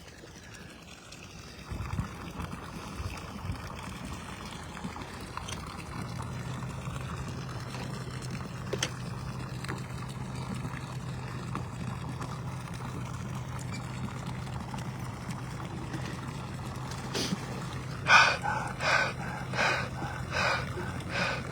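Water and fish rushing out of a fish stocking truck's tank into the lake, a steady pouring that starts about two seconds in, with a steady low hum joining a few seconds later. Near the end, a quick run of short loud pulses cuts in over it.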